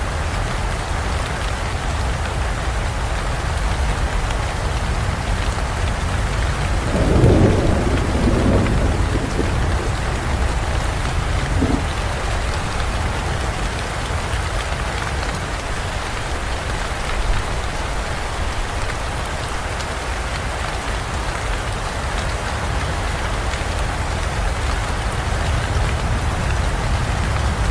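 Steady heavy rain falling in a forest, with a thunder rumble about seven seconds in that swells and dies away over two seconds, and a shorter, fainter rumble a few seconds later.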